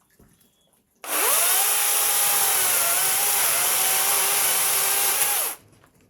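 Handheld power tool running for about four and a half seconds: its whine rises quickly as it spins up about a second in, holds steady with a dense hiss over it, then stops sharply.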